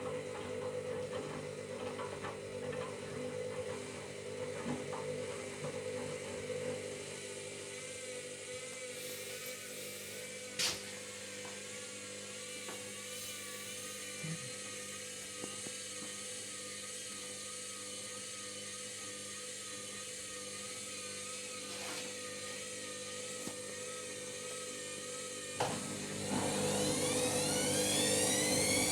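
Candy Grand'O Vita washing machine's motor turning the drum at low speed with a steady hum and a few sharp clicks, after it seemed to struggle to get into its spin. Near the end the motor speeds up with a steeply rising whine as the spin starts.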